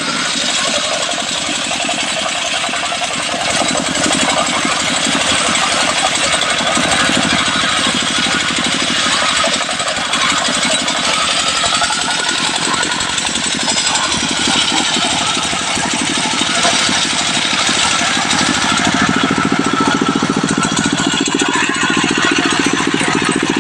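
Diesel-engined portable circular sawmill running under load as its blade cuts trembesu timber: a steady dense hiss over the engine's rapid, even beat.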